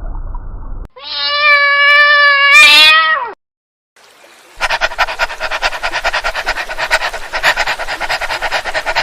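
A domestic cat gives one long meow lasting about two seconds, its pitch rising slightly and then dropping at the end. After a short pause comes a harsh, rapidly pulsing rasp lasting several seconds.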